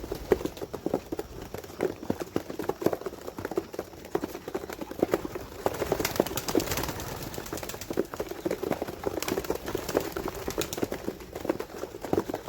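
A loft of high flyer pigeons: rapid flapping and clattering of wings and feet as birds take off and move about, with low cooing underneath.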